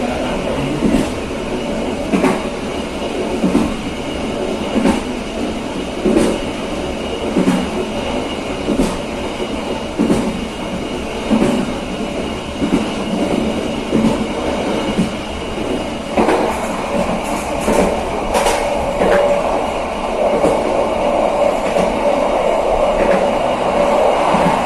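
Passenger train running on rails, its wheels knocking over the rail joints in a regular clickety-clack, about one knock every second and a bit. From about two-thirds of the way in, a louder, steadier rumble joins the knocks.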